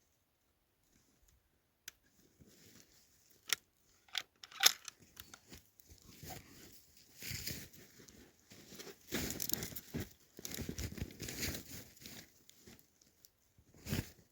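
Close rustling and crunching handling noise, with a few sharp clicks in the first seconds and a knock near the end.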